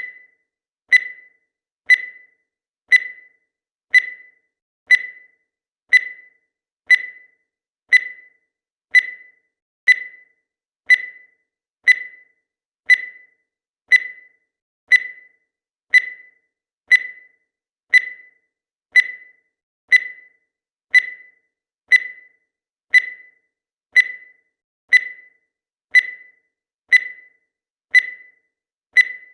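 Countdown timer's electronic tick: a short, high beep once every second, each fading quickly, repeating evenly.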